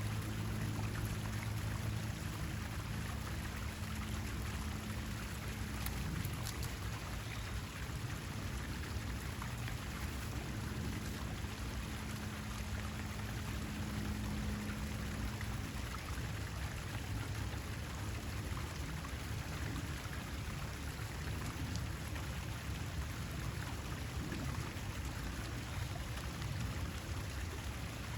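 Steady water noise, an even hiss like running or falling water, with a low hum under it that fades out about halfway through.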